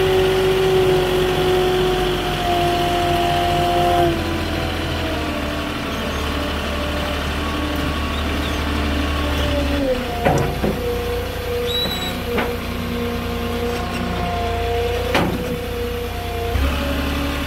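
Forklift engine running as it carries a load, its pitch dropping about four seconds in and rising again near ten seconds, with a few sharp knocks.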